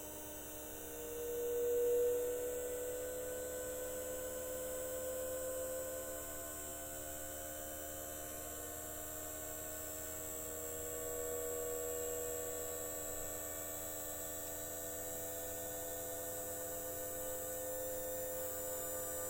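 Model train driven by a KATO power pack rebuilt with a PWM motor driver set near 300 Hz, giving a steady electric whine with overtones that imitates the chopper-control sound of a 201 series train. One tone swells briefly about two seconds in and wavers slightly in pitch through the rest.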